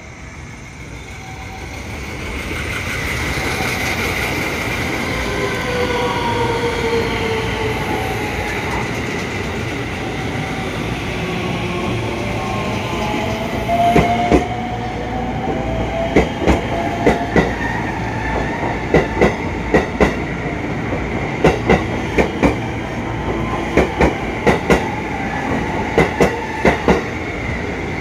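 A train passes at speed. Its running noise swells in over the first few seconds, with a whine that slides in pitch. From about halfway on, its wheels strike a rail joint in a steady run of paired clicks (clickety-clack) as car after car goes by.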